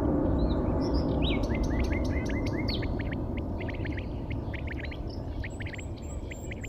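Small birds chirping in quick, busy calls over a loud low rumble that slowly fades.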